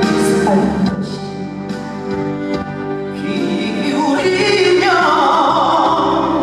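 Live band music with a singer's voice, its notes held and sustained; a long wavering note rises over the band in the second half.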